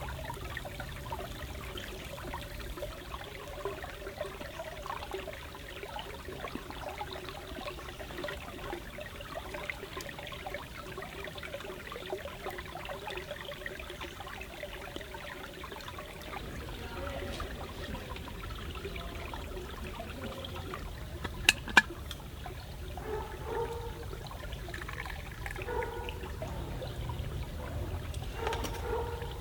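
Forest stream trickling steadily, with two sharp clicks a little past the middle.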